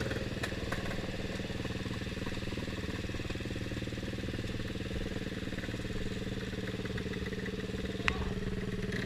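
Motorcycle engine running steadily at a constant pitch, with one sharp click about eight seconds in.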